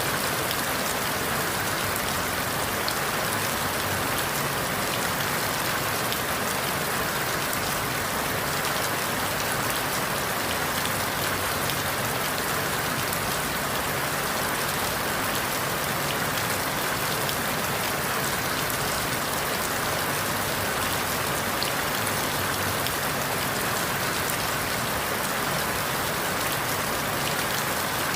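Steady rain falling on forest leaves: an even hiss of many small drops that does not change.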